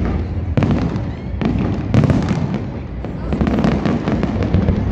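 Fireworks finale: aerial shells bursting in rapid succession, a dense string of bangs over a continuous low rumble.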